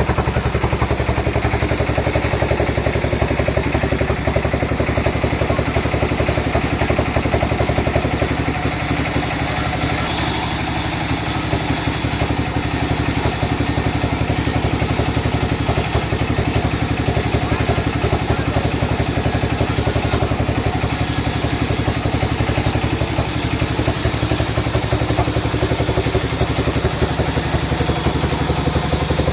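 Sawmill machinery running steadily: a continuous engine-like drone with a fast, even pulse.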